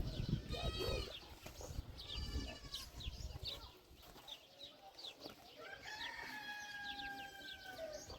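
Farmyard chickens: short calls early on, then a rooster crows once in one long held call from about six seconds in, tailing off near the end.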